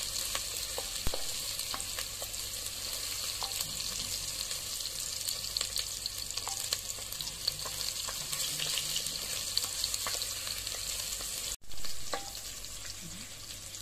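Onions and spice mix sizzling in rendered chicken fat in a clay pot, stirred, with scattered light clicks from the stirring utensil. The sound cuts out for an instant near the end, then comes back louder.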